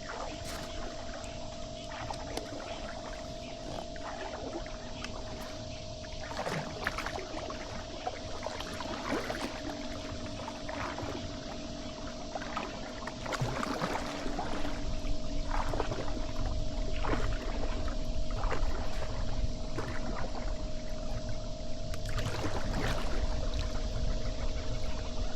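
Kayak paddling: water splashing and dripping off the paddle blades at irregular intervals. Wind rumbles on the microphone and grows stronger about halfway through, over a steady faint hum.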